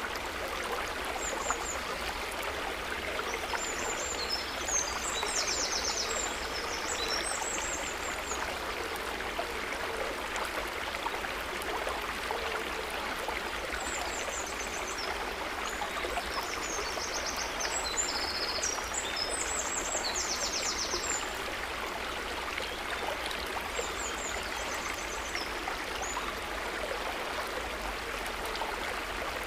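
Steady rushing and trickling of flowing water, a small stream or trickle. Over it come spells of high, rapid chirping, from about three to eight seconds in and again from about fourteen to twenty-one seconds in.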